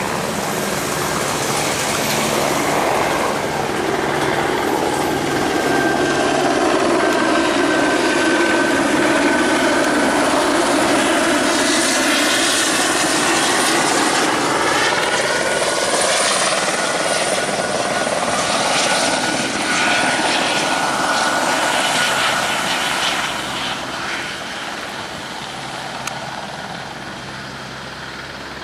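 Embraer 195 jet's twin turbofan engines at takeoff thrust as the airliner goes by, a loud steady jet rumble with a thin whine over it that rises and falls in tone. It fades noticeably about three quarters of the way through as the jet moves off.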